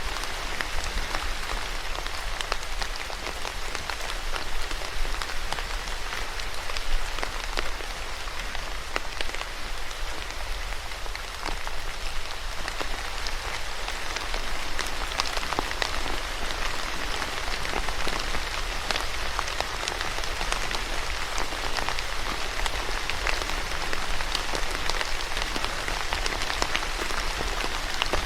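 Steady rain falling on a hard surface, with many separate drops ticking through the constant hiss.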